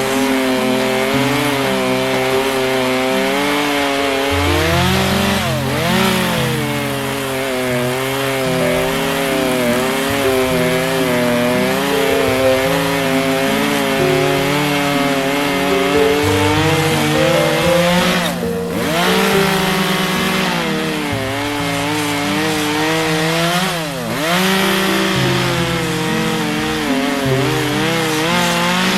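Two-stroke chainsaw running at high revs and cutting wood. Its pitch dips sharply and climbs back several times as the chain bites into the cut.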